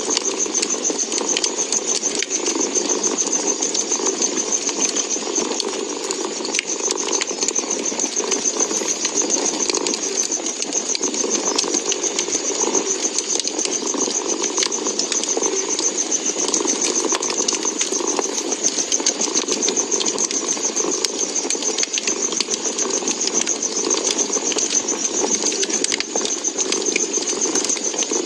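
Wood fire crackling with a steady stream of small pops and ticks, over a cat's continuous purring.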